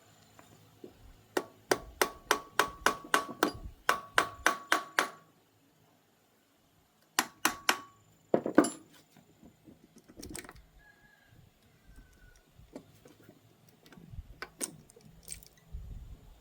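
Rapid hammer strikes on metal engine parts, about four or five a second with a ringing note, in two runs. A heavier knock follows, then a few light clinks of tools and parts.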